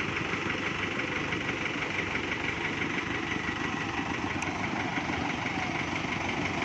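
Kubota MU5702 tractor's diesel engine running steadily at a constant speed.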